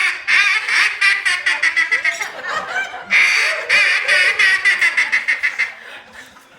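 Duck call blown in a mallard-hen greeting call: two runs of quick quacks, each starting loud and long and then tapering into faster, shorter notes. It is meant to signal to ducks that are turning in.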